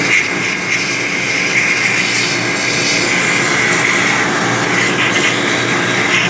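Yacht air-conditioning pump and engine-room machinery running, a loud, steady drone with a steady high whine and hiss over it.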